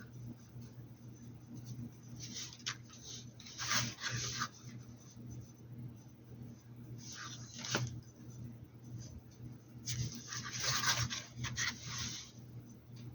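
Paintbrush scrubbing paint onto a hat in three bursts of scratchy strokes, over a steady low electrical hum.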